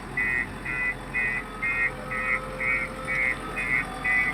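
JCB 3DX backhoe loader's reversing alarm beeping steadily, about two short beeps a second.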